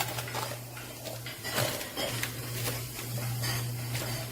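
Loose quarters clinking and clattering as they are scooped by hand out of a coin pusher machine's payout tray: irregular metallic clicks over a steady low hum.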